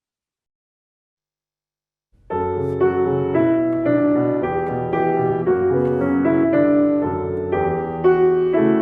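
Dead silence for about two seconds, then piano music starts abruptly and plays on, a slow chordal piece.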